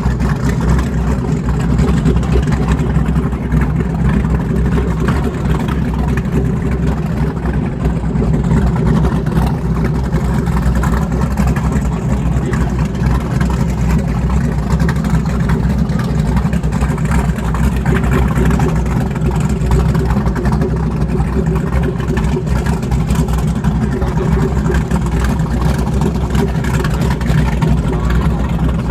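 Boat engines running steadily at low speed, a continuous low drone with no sharp events.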